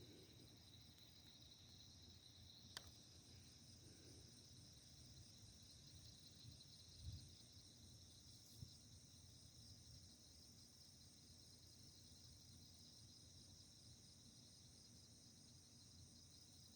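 Faint, steady chorus of crickets trilling on a summer night. A brief click comes about three seconds in and a short low thump about seven seconds in.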